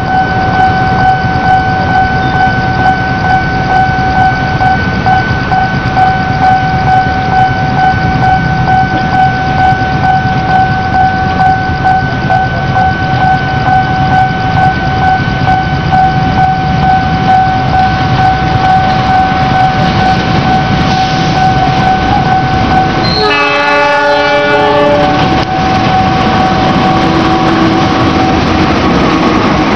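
A diesel locomotive approaches with a steady rumble under a continuous ringing tone that pulses regularly and stops about 21 seconds in. It sounds one horn blast of about two seconds, then runs past with its engine droning.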